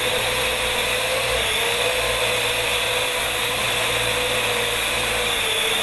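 Parrot AR.Drone quadcopter in flight, its four electric motors and propellers making a steady whirring buzz with a whine that wavers slightly in pitch.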